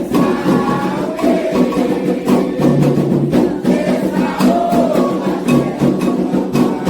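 Candomblé xirê music: hand drums and struck percussion keep a steady, driving rhythm under chanted singing.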